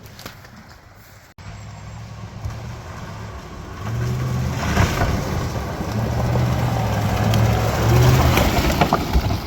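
GMC Z71 pickup truck's engine running and revving, its pitch stepping up and down, and getting louder about four seconds in.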